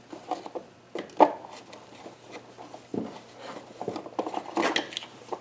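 Hand tools clicking and knocking against metal parts in an engine bay: a scattering of short, irregular clicks and light knocks, the sharpest about a second in.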